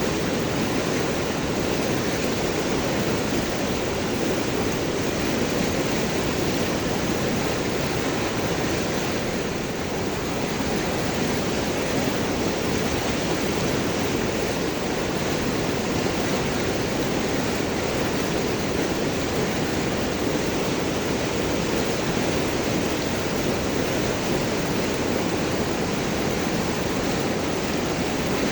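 River water flowing and gurgling over and around large rocks, a steady rushing.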